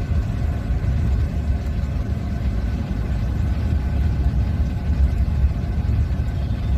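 A car being driven slowly, heard from inside the cabin: a steady low rumble of engine and road noise.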